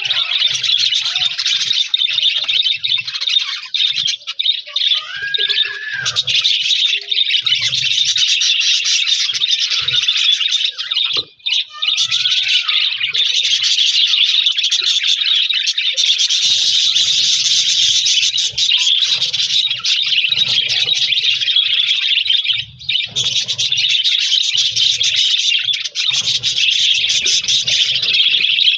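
A group of budgerigars chattering and chirping without pause, many birds at once. The chatter drops out briefly about eleven seconds in and again a little before halfway through the second half.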